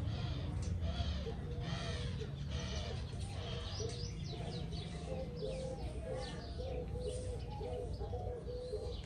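Birds calling in the background: a long run of short, low, repeated notes with fainter higher chirps over them.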